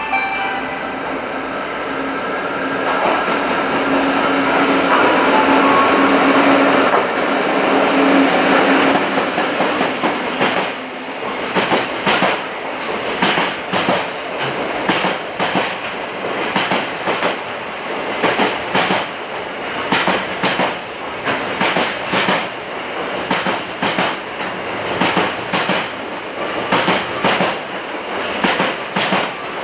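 JR Freight EF66 electric locomotive approaching and passing with a steady hum, followed by a long string of freight container wagons. Their wheels clack over the rail joints in regular, repeating groups.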